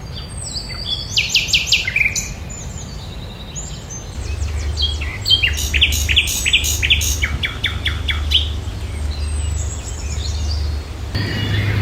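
Songbird singing: quick runs of sharp, falling chirps, one short bout about a second in and a longer one from about five to eight seconds in, over a low steady hum.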